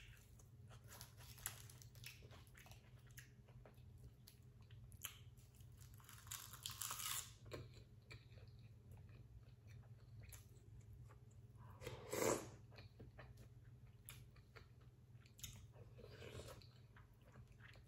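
Faint, close-up chewing while eating, with many small wet mouth clicks and a few louder bursts about six, twelve and sixteen seconds in.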